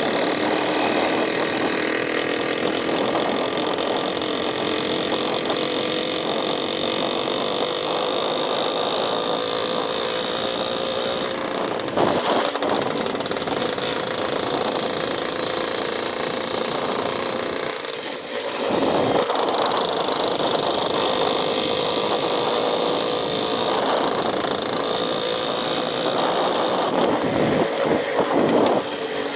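Vehicle engine running steadily, its note creeping slowly higher and briefly dropping about two-thirds of the way in.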